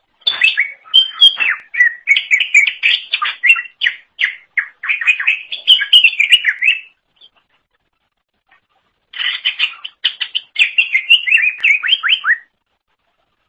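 Green leafbird (cucak ijo) singing: fast, varied runs of chirps and whistled notes, breaking off for about two seconds midway, then a second burst that stops about a second before the end.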